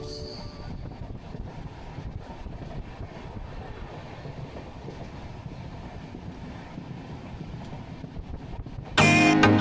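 Express passenger train running along the track: a steady rumble with faint clicks from the wheels. Background music comes back in loudly about nine seconds in.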